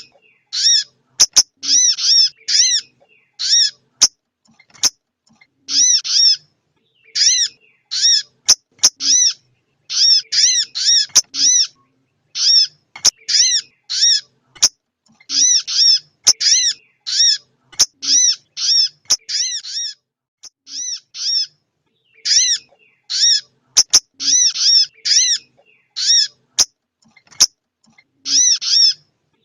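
Female sogon bird calling: short, high, arched notes repeated in quick runs of several at a time, with brief pauses between runs. It is the kind of female call played to rouse male sogon birds into singing. A few sharp clicks sound here and there.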